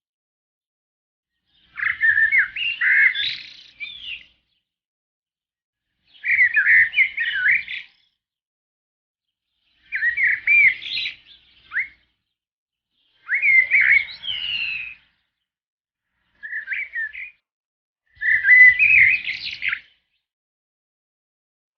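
A songbird singing: six short warbled phrases of about two seconds each, with pauses of about two seconds between them.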